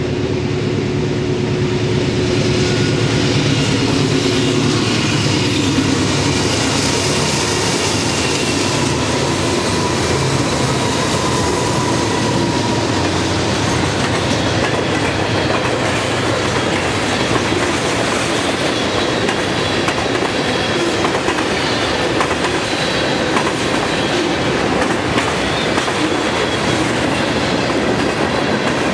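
Freight train passing close by. The diesel locomotives' engines go by in the first few seconds, then a long string of freight cars rolls past with a steady clickety-clack of wheels over the rails and thin wheel squeals now and then.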